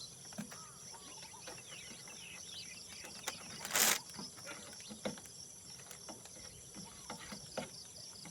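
Outdoor insect chorus of crickets, a steady high pulsing buzz, with faint bird chirps and scattered small clicks. A brief loud burst of noise comes about four seconds in.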